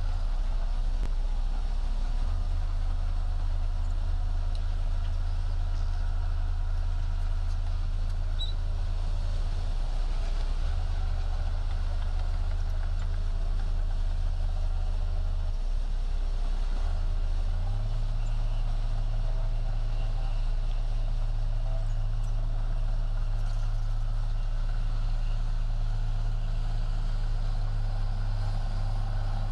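Heavy diesel earthmoving machine's engine running steadily as a low drone, its pitch stepping up slightly a little past halfway.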